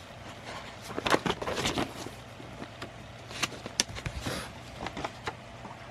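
Paper rustling in short bursts as old drawings and notebook pages are handled and leafed through, over a faint steady low hum.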